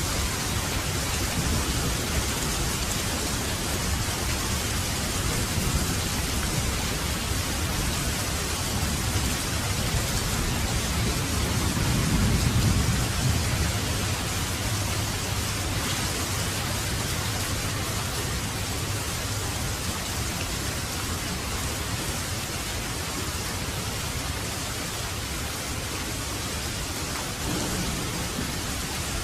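Heavy rain falling steadily, with a low roll of thunder swelling a little before halfway through.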